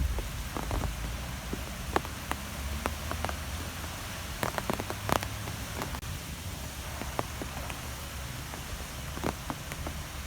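Wind ambience: a steady low rumble and hiss, with scattered sharp ticks, a small cluster of them about halfway through.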